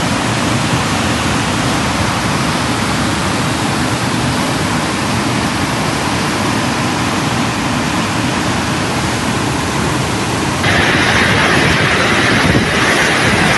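Loud, steady rushing of water. About ten seconds in, it abruptly turns sharper and a little louder.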